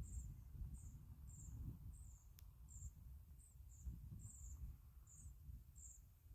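Faint, high, thin chirps repeated about twice a second, the calls of a pied flycatcher nestling in its nest box, over a low rumble.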